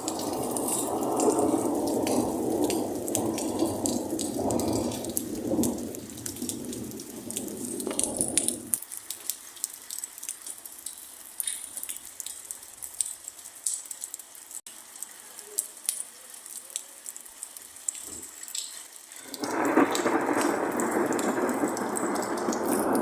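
Thunder rumbling over steady rain, with raindrops ticking throughout. The rumble dies away about nine seconds in, leaving only the rain, and a second peal of thunder starts about three seconds before the end.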